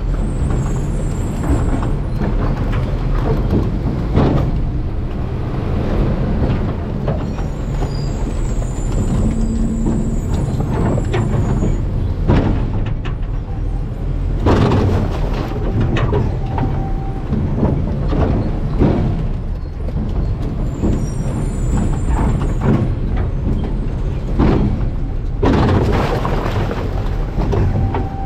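Garbage truck's diesel engine running with a steady rumble, the body and hopper rattling, with several heavy metallic clanks. Brief high squeals come three times, about a second in, near the middle of the first half, and again around two-thirds of the way through.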